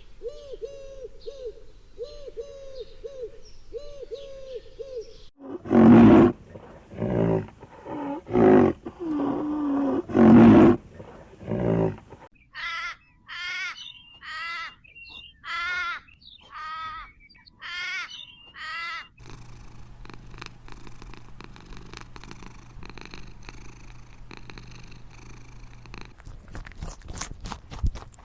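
Calls from several different animals in turn. First a soft call repeated about every half second, then about six seconds of loud calls, then a run of rapidly wavering high calls, and finally quieter clicking and crunching over a low hum.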